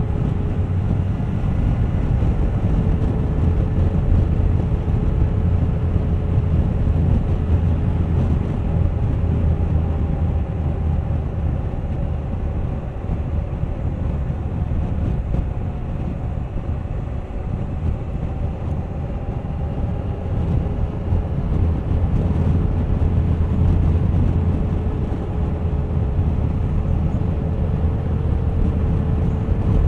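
Suzuki GSX1250FA motorcycle's inline-four engine running at a steady cruise, with a heavy rumble of wind buffeting the microphone. The engine note drifts slightly in pitch and eases a little in the middle before picking up again.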